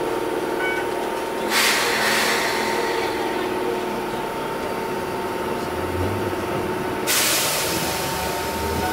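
Enoden 500-series electric train at a standstill with a steady electrical hum, and two loud bursts of air hiss, one about a second and a half in and another about seven seconds in. A low hum starts around six seconds in as the train begins to pull away from the station.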